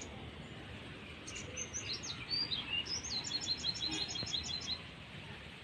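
Small bird chirping over a low outdoor hiss: a few scattered high chirps, then a quick run of about ten short high notes that ends near the close.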